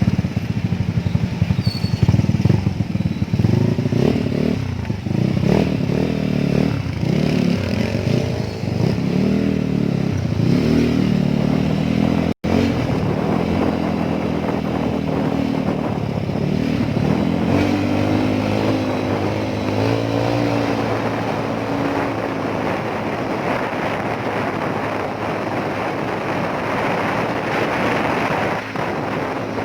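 Motorcycle engine running under way, its pitch rising and falling with throttle and gear changes, over steady wind and road noise.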